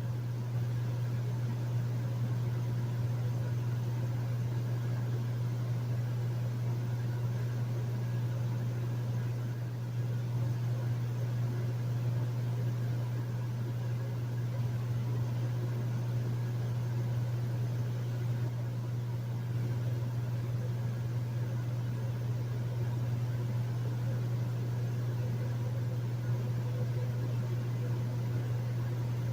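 Hotel room air conditioner running steadily: a constant low hum under an even rush of fan noise.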